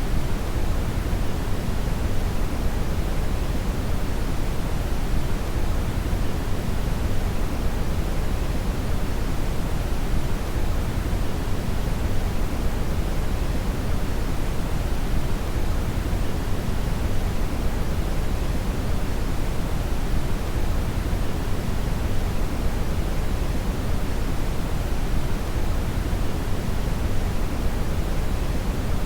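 Steady brown noise (red noise): a constant, even rumbling hiss weighted toward the low end, with no changes or events.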